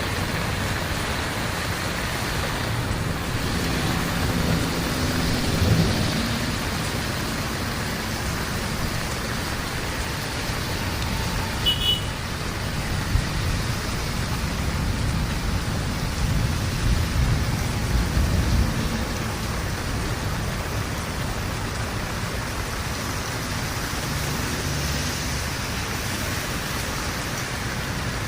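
Heavy rain falling steadily. Low rumbles swell up about five seconds in and again about two-thirds of the way through.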